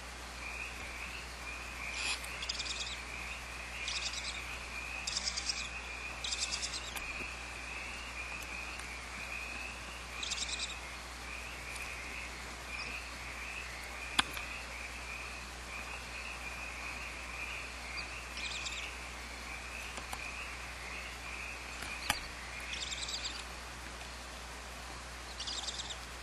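Barn owls at the nest giving short, rasping hiss calls, about nine bursts of roughly half a second each, irregularly spaced, over a steady high-pitched chorus. Two sharp clicks come near the middle and about two-thirds of the way through.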